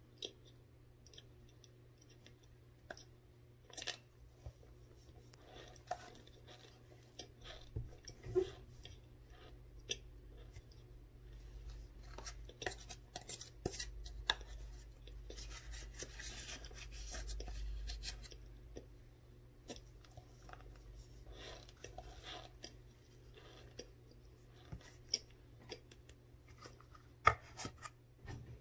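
Close-up crunching of frozen corn starch being chewed, an irregular run of small crackling clicks, with a spoon scraping the plastic container in between.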